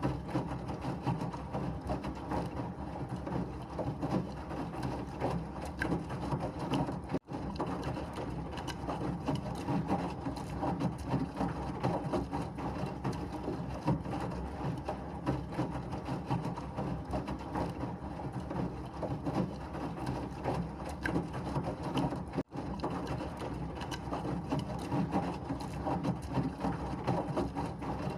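Washing machine running, a steady mechanical noise with a dense irregular rattle. It cuts out for an instant twice.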